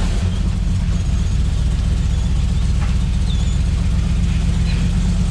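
Jeep engine idling steadily, a low even rumble.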